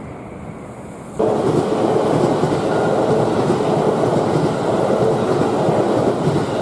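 Kiya 97 series diesel rail-transport train going by at close range: a loud rumble of wheels on the track with a steady hum, setting in abruptly about a second in.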